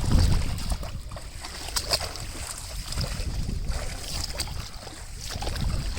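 Outdoor water noise during net fishing in floodwater: an uneven rumble of wind on the microphone, with light splashing and a few sharp clicks or knocks.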